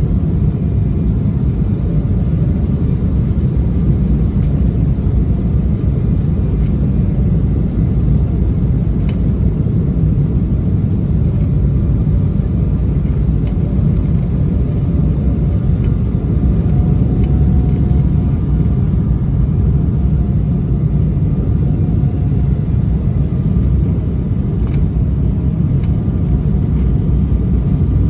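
Steady cabin rumble of an Embraer E190 airliner on its landing approach, the jet engines and rushing airflow heard from inside the cabin. A few faint clicks and, about halfway, a faint steady tone sit over the rumble.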